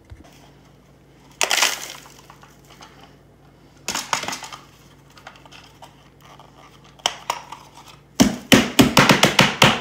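Plastic Roomba 650 dust bin and filter being handled and emptied: a few separate bouts of clattering and scraping, then near the end a fast run of about ten sharp knocks, about five a second, as it is rapped to shake out the dirt.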